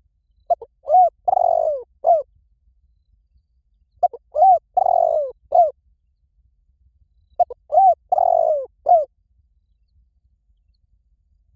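Spotted dove cooing: three identical phrases about three and a half seconds apart, each two or three short coos, then a longer coo falling in pitch, then one short closing note.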